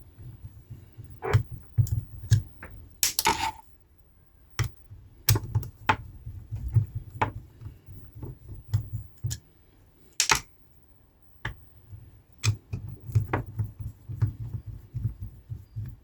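Hands working on a speaker tweeter during disassembly: irregular small clicks and taps of parts and tools, with dull low knocks from handling, and brief pauses between.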